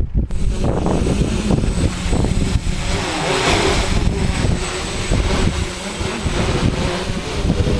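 Strong wind buffeting the microphone, mixed with the steady drone of a multirotor's motors and propellers.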